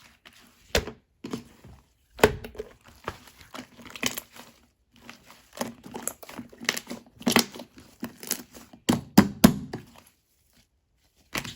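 Slime being squeezed, poked and stretched by hand, giving clusters of sharp wet clicks and pops with short pauses between them.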